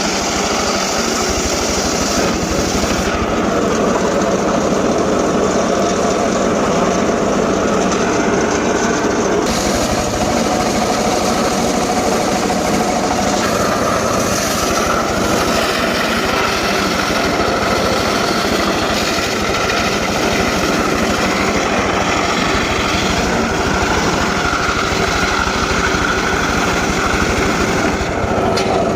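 Small engine-driven saw running steadily while cutting gmelina wood, its tone shifting a few times as the cut goes on.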